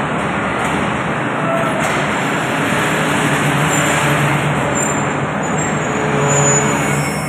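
Passenger coaches of an arriving train rolling slowly past a station platform: a steady rumble of wheels on rails, with thin high squeals in the second half as the train brakes.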